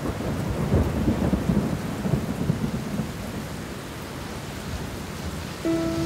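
Steady rain-like rushing noise with a low rolling rumble like thunder, strongest in the first couple of seconds; music with held notes starts near the end.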